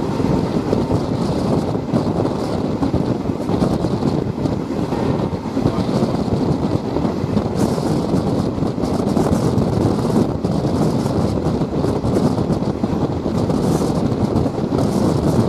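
Passenger train running, a steady rumble with wind buffeting the microphone.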